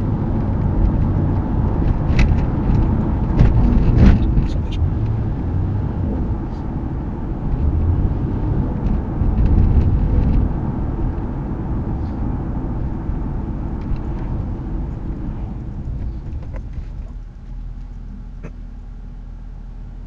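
Ford Crown Victoria's V8 engine and road noise while driving, a loud low rumble that rises and falls. About three-quarters of the way through it drops and settles to a quieter, steady low hum as the car eases off.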